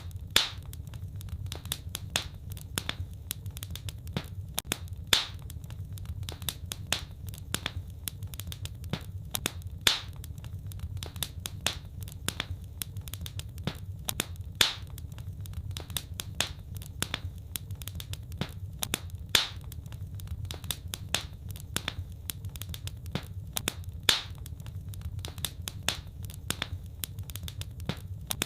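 Wood fire crackling: dense, irregular small crackles over a low rumble, with a louder pop about every five seconds.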